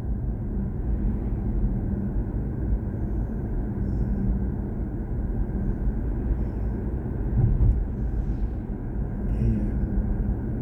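Steady low road and tyre rumble inside the cabin of a BMW i4 M50, an electric car, while driving.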